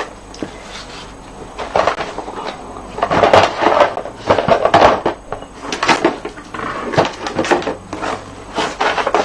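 Craft supplies being handled and rummaged through on a table: irregular clattering, knocks and rustling, busiest and loudest in the middle.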